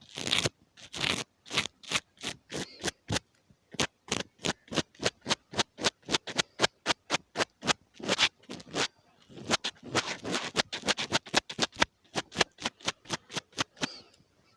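Ear-cleaning ASMR: an ear pick scratching and scraping against the microphone in quick repeated strokes, about four or five a second, a few of them heavier.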